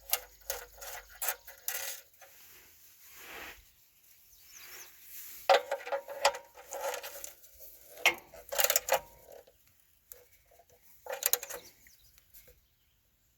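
Metal clicking and clinking of a socket wrench on the oil pan drain plug, in several short bursts with pauses between, as the plug is threaded back in and tightened.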